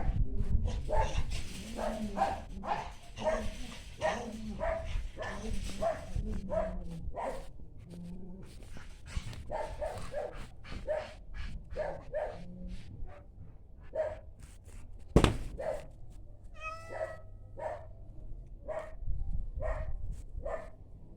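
Cats meowing over and over in short calls, one or two a second, with a single sharp knock about fifteen seconds in.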